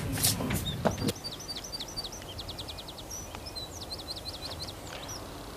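A small bird singing a run of short, quick chirps with a rapid trill in the middle, over faint outdoor hiss. There are a few soft knocks in the first second.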